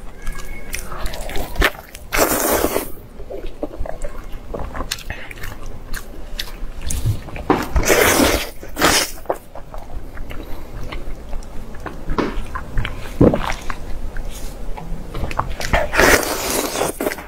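A person chewing and biting braised meat close to the microphone: a steady run of small chewing clicks, with three louder bites spread through.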